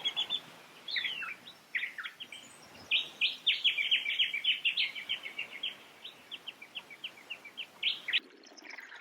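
Whistling kite calling: a couple of descending whistled notes, then a long staccato chatter of short, sharp notes that thins out toward the end.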